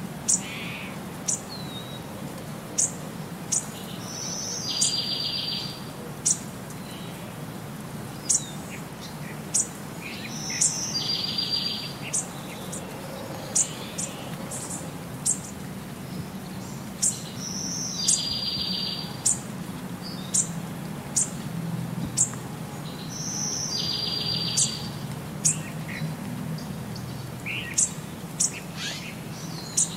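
Birds chirping: short, high chirps throughout, with a buzzy trill that repeats at even spacing about every six and a half seconds, over a faint steady low hum.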